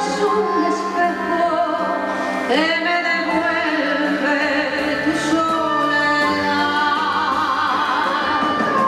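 Live tango song: a woman sings held, sliding notes over the accompaniment of a small jazz ensemble.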